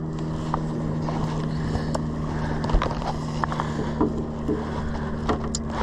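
Boat engine idling steadily, a constant low hum, with a few light knocks and clicks from handling gear on board.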